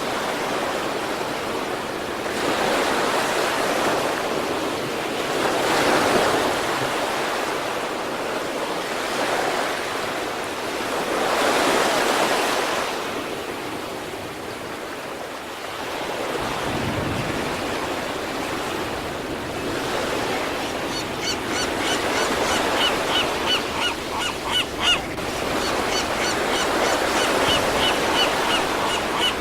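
Sea waves breaking on a shore in slow swells every few seconds, the surf rushing and washing back. In the last third, birds call over the surf in quick runs of short, high chirps.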